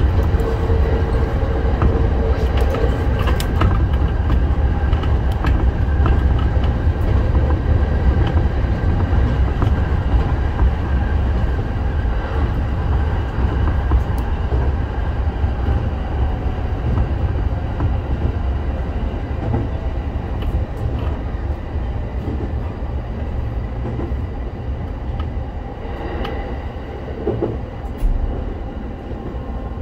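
Electric local train running along the line, heard from inside near the front of the car: a steady low rumble of wheels and running gear with scattered clicks over the rails. The sound eases off somewhat in the last third.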